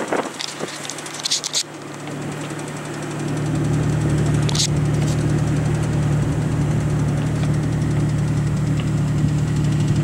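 Jeep engine running under load while it tows a car stuck in snow on a strap. It grows louder about three seconds in and then holds a steady low drone.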